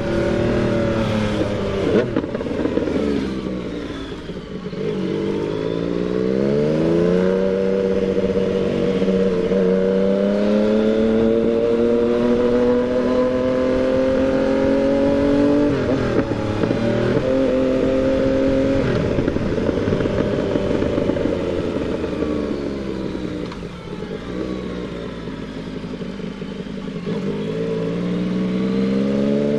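Yamaha MT-09's inline three-cylinder engine under way. Its pitch climbs as it revs through the gears and drops briefly at each shift, holds steady for a stretch, then falls away as the bike slows for several seconds. Near the end it pulls away again with rising revs.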